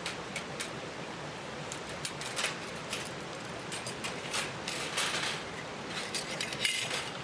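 Metal parts of a new take-apart fire pit being handled and laid out: irregular light clinks and clicks with some rustling, over a steady background hiss.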